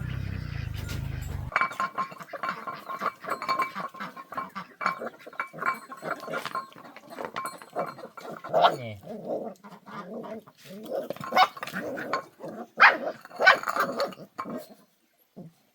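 Dog giving a long run of short yips and barks, with some falling whines, loudest in a few sharp barks near the end. A low steady hum cuts off about a second and a half in.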